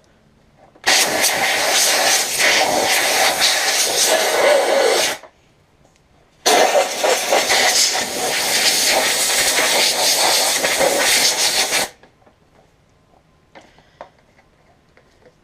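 Compressed-air blowgun blasting air through the vacuum cleaner's clogged air passage to blow out packed dirt: two long, loud hissing blasts of about five seconds each, with a short pause between.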